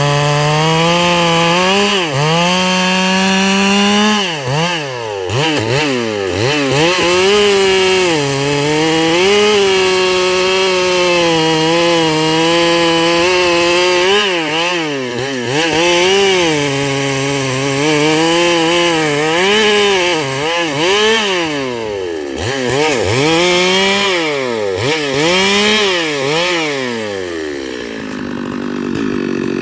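Stihl MS 382 two-stroke chainsaw at full throttle, ripping eucalyptus logs lengthwise. The engine pitch sags and recovers again and again as the chain loads up in the wood, then drops to idle near the end.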